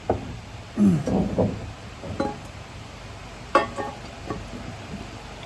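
A few metallic clinks and knocks, with one sharp ringing clink about three and a half seconds in.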